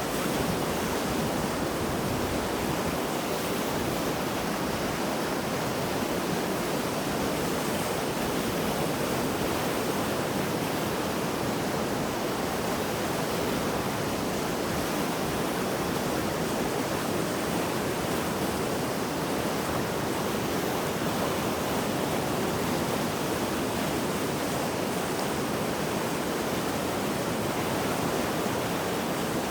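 Mountain river in spate after heavy rain, its water rushing steadily over rocks in an even, unbroken noise.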